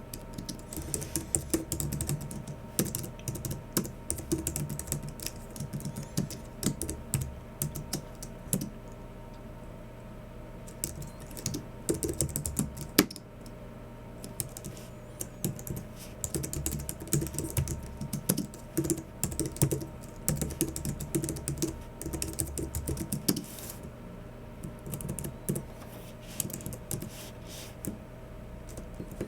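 Typing on a Logitech MX Keys Mini low-profile scissor-switch keyboard: bursts of rapid keystrokes broken by short pauses, with one sharper, louder click about halfway through. A faint steady hum sits underneath.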